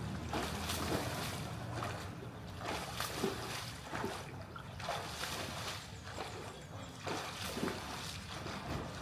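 Swimming-pool water sloshing and splashing in irregular surges, about one a second, over a low rumble.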